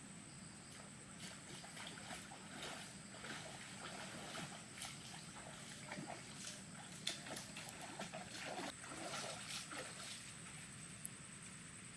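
Faint, irregular rustles and light clicks, busiest in the middle of the stretch, over a steady thin high tone.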